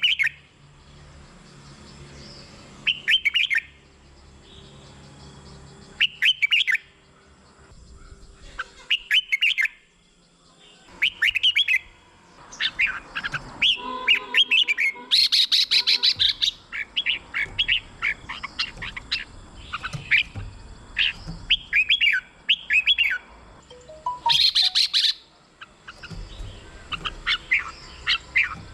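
Red-whiskered bulbul singing short, liquid warbled phrases a few seconds apart, then a longer, denser run of song through the middle. Twice in that run the song turns to a harsher, scratchy chatter.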